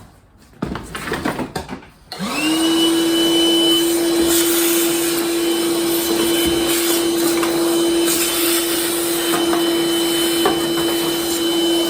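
A few knocks and clatter, then a vacuum cleaner switches on about two seconds in. Its motor whine rises quickly to a steady pitch and keeps running.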